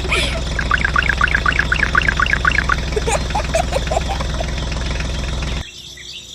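A steady low engine-like drone with fast runs of short bird calls over it. Both cut off abruptly near the end, leaving a quieter background.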